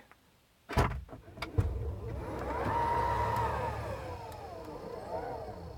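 Tesla Model X falcon wing door opening: a click as the latch releases, then the door's electric motor whirring as the door lifts, rising in pitch, holding, then falling and swelling once more near the end.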